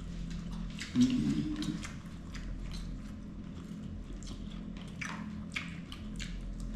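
Eating at a table: scattered small clicks and chewing sounds over a steady low hum, with a brief murmur of a voice about a second in.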